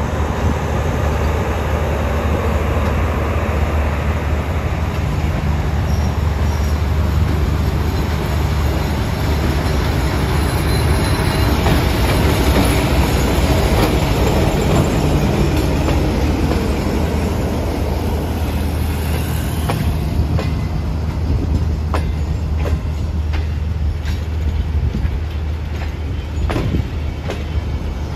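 Diesel-hauled passenger train pulling away and running past, with a steady engine drone under loud wheel and rail rumble. In the last several seconds, the wheels click sharply and unevenly over rail joints.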